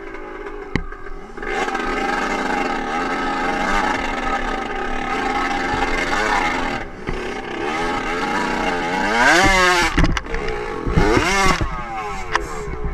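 Dirt bike engine running under way, picking up about a second and a half in, then revved hard twice near the end, the pitch climbing steeply and dropping each time.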